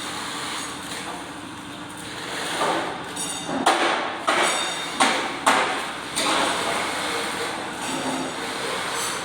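Metal-fabrication shop noise: a steady noisy background with a short metallic ring, then about four sharp clanks of metal being struck or handled in the middle.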